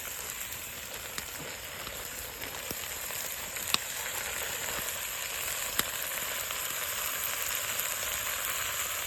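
Chopped venison and onions frying, a steady sizzle that grows a little louder as the meat browns, with a couple of sharp pops.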